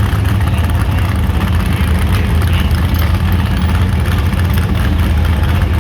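Engine idling, a steady low-pitched running sound that does not rise or fall.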